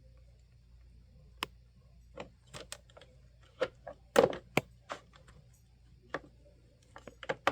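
Scattered plastic clicks and knocks from handling the front guard of a Honeywell HT-900 fan and working it into place, irregularly spaced, the loudest about four seconds in.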